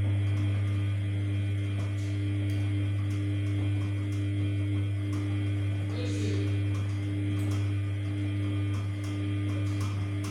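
Samsung P1271 washing machine giving off a steady low electrical hum from one of its mains-powered parts, such as the drain pump or the fill valve, running.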